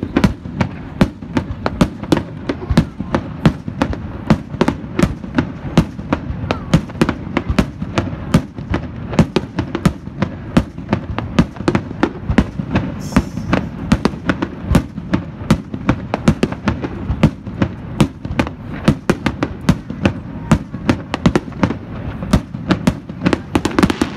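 Fireworks display: aerial shells bursting in quick succession, about three or four sharp bangs a second over a steady low rumble.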